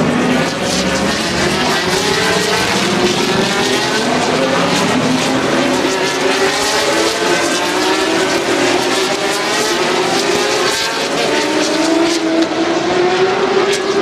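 Several race car engines accelerating together, their pitches overlapping and climbing steadily over many seconds.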